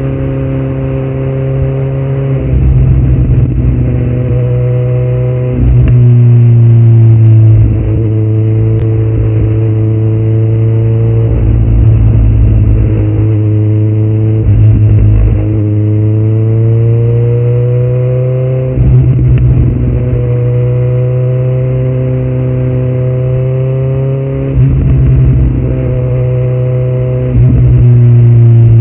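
2018 Kawasaki Z900's inline-four engine running through a Yoshimura muffler and Delkevic headers with no dB killer, under way on the bike. The engine note climbs and drops several times, with short breaks between the climbs and louder surges of throttle.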